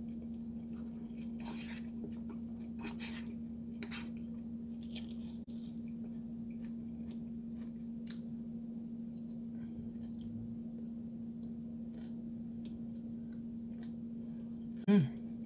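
Close-up chewing of spaghetti: soft wet smacks and squishes, with small mouth clicks every second or so, over a steady low hum. A short vocal sound comes near the end.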